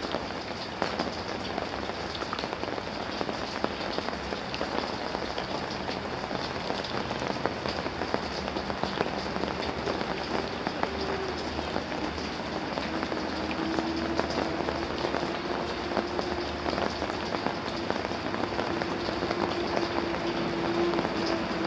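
Steady rain falling, a dense patter of countless raindrops hitting a surface. About halfway through, a faint steady hum joins underneath.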